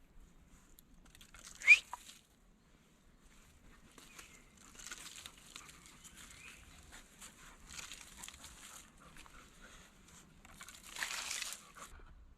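Intermittent rustling and crinkling noises, with a short sharp sound about two seconds in and a louder burst of rustling near the end.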